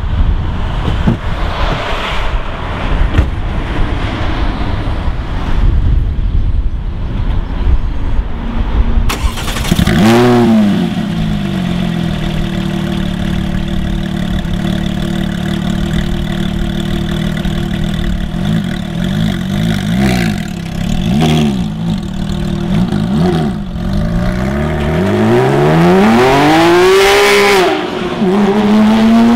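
Wind noise on the microphone, then a Porsche 911 GT3 RS's flat-six engine starts about nine seconds in, flares up in revs and settles into a steady idle. It is then blipped several times and given one longer rev, and near the end the car accelerates away with rising pitch.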